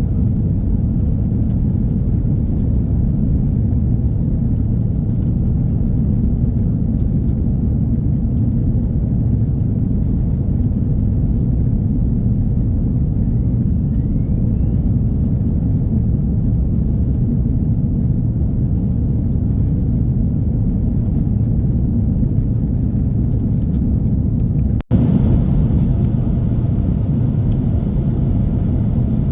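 Airbus A330-300 cabin noise during takeoff and climb: a steady low rumble of jet engines and airflow heard from an economy seat. It drops out for an instant about 25 seconds in, then carries on.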